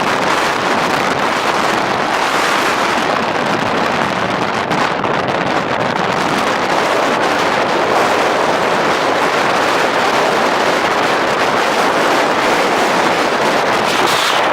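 Blizzard wind blowing hard and steadily, a loud rushing hiss with wind buffeting the microphone.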